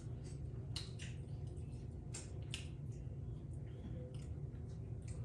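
Close-up eating sounds: wet smacks and clicks of chewing, irregular and a few a second, over a steady low hum.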